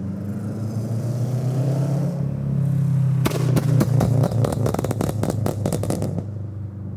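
2022 Subaru BRZ's 2.4-litre flat-four through a fully catless exhaust (Tomei unequal-length headers, Berk catless front pipe, Greddy RS exhaust) running with a rising drone for about three seconds. Then comes a rapid string of exhaust crackles and pops lasting about three seconds, the pops its tune is set up to make, before the drone settles again.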